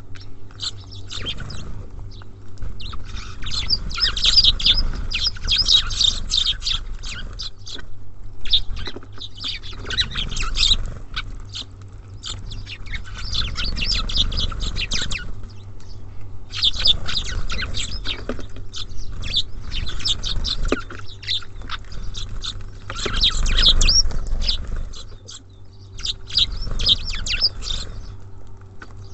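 Small songbirds at a bird feeder, tits and sparrows, chirping in bursts of rapid high chirps lasting a few seconds each, with short lulls between them.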